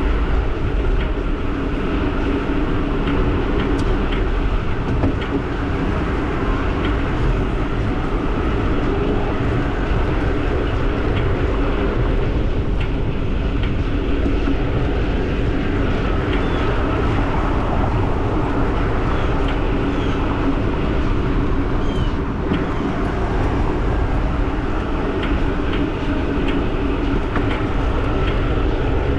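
Giant e-bike riding along a trail: a steady rumble of motion with light ticks repeating throughout, the unexplained ticking noise the rider is trying to place.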